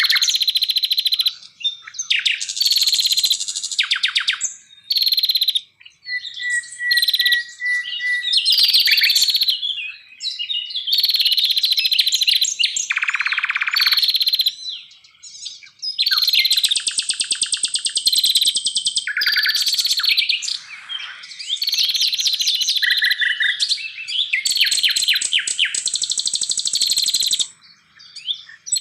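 Forest songbirds singing continuously: rapid trills, buzzy rattling phrases and sharp chirps, each phrase lasting a second or two with short pauses between.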